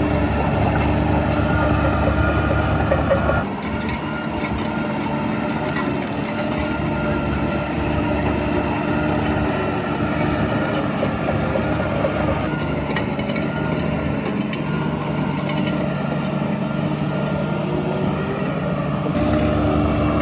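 A heavy diesel engine of earthmoving machinery running steadily. It drops in level about three and a half seconds in and comes back up near the end.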